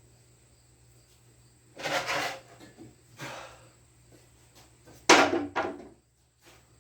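Handling noises: a short scrape about two seconds in and a fainter one a second later, then a sharp knock followed straight away by a second, lighter knock near the end.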